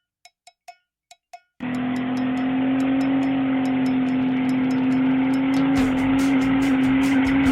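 Intro soundtrack: a few light percussive clicks, then about a second and a half in a loud, steady car-engine sound comes in, mixed with music that picks up a regular beat near the end.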